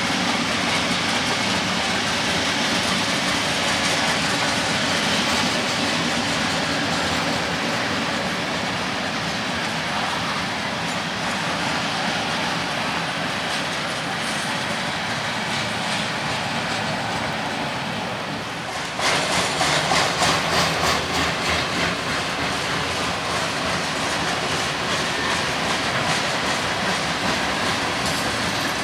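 CPKC freight train rolling past, its cars' wheels running over the rails in a steady rush. About two-thirds of the way through it gets suddenly louder, with a regular clickety-clack of about two beats a second.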